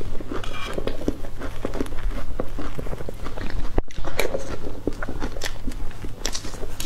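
Close-miked wet chewing and lip smacking of a mouthful of soft fresh cream cake, with many quick irregular mouth clicks.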